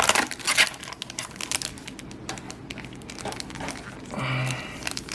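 Plastic packaging crinkling and tearing as a trading-card booster box is unwrapped and opened: a dense, irregular crackle of handled wrapping.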